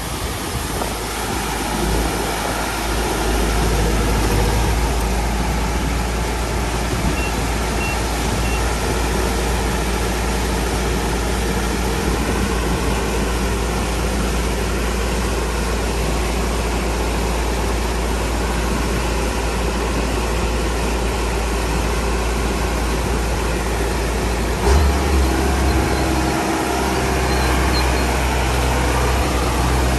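Motor vehicle running: a steady low rumble with road noise, which shifts with a brief jolt late on.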